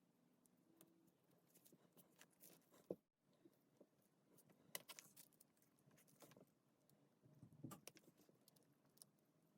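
Near silence with faint, scattered clicks and light taps of small hard parts being handled.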